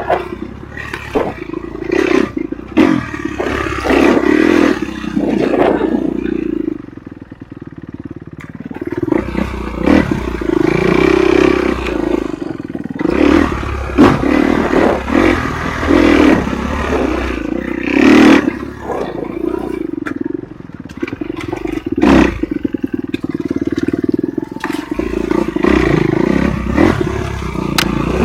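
Enduro motorcycle engine running with its pitch rising and falling as the throttle is worked on a rough trail. Many sharp knocks and clatter run through it.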